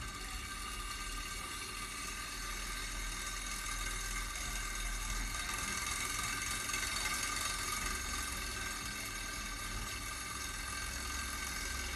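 Small model Stirling engine generator running steadily: a constant mechanical whir with a steady high whine and a low hum underneath.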